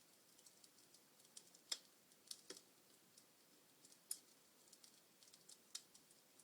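Wood fire crackling in a fireplace: irregular sharp pops and snaps, the loudest about a second and a half and four seconds in, over a faint low hiss of the flames.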